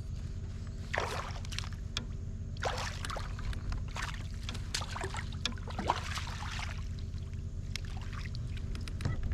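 Water splashing and trickling beside a kayak in about six short swishes one to two seconds apart, over a steady low rumble.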